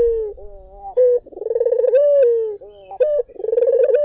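Puter dove (domestic collared dove) cooing in repeated phrases. Each phrase is a rolling, trilled coo that runs into a held note that bends down in pitch, with short clipped coos in between.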